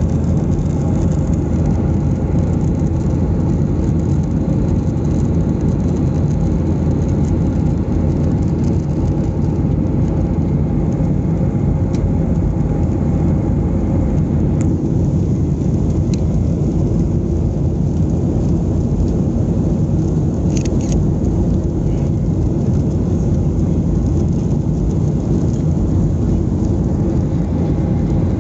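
Steady low roar inside the cabin of a Boeing 737-800 in flight, from its CFM56 jet engines and the air rushing past the fuselage, holding an even level.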